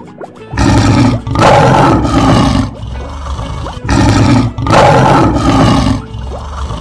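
Lion roar sound effect, heard twice, each roar about two seconds long, over soft harp music.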